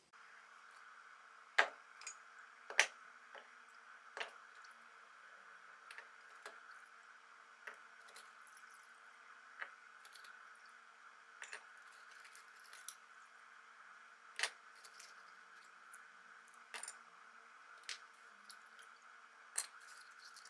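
Irregular sharp clicks and taps, like small metal parts being handled and set down, the loudest two near the start, over a faint steady hum.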